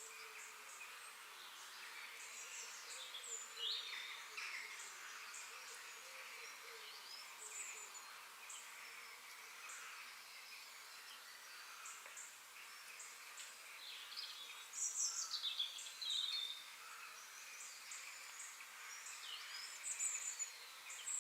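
Forest ambience with several birds calling: scattered short chirps and quick falling whistles, a little busier about three-quarters of the way through and again near the end, over a steady high hiss. The sound cuts off suddenly at the end.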